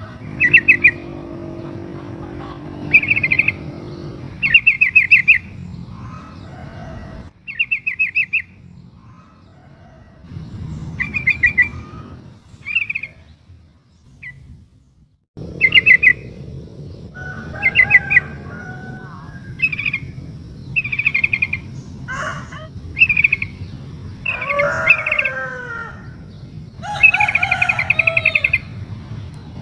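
Yellow-vented bulbul (trucukan) calling: short, rapid chattering bursts repeated every second or two, with a brief pause midway and longer warbling phrases in the second half. Presented as a female calling to a male.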